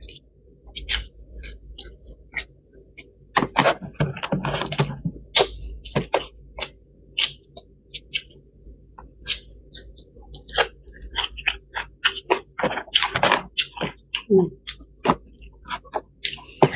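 A person chewing food, with wet mouth clicks and smacks at an irregular pace. The chewing thickens into denser stretches about three and a half seconds in and again around thirteen seconds.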